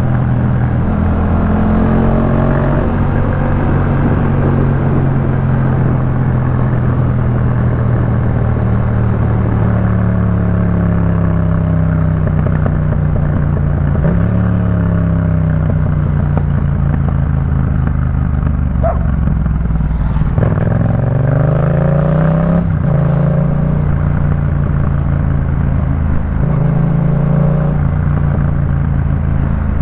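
Yamaha MT-07's parallel-twin engine breathing through a Jeskap K4 full aftermarket exhaust while ridden, its note rising and falling in pitch several times with throttle and gear changes.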